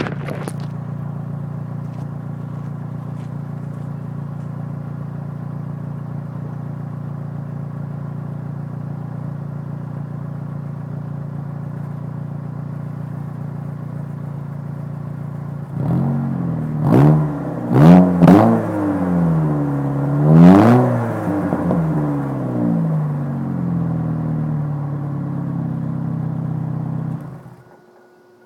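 1999 Chevy Cavalier's 2.2-litre four-cylinder, breathing through a DC Motorsports muffler and free-flow converters, idling steadily, then revved in about four quick blips a little past halfway. It settles to a faster idle and cuts out about a second before the end.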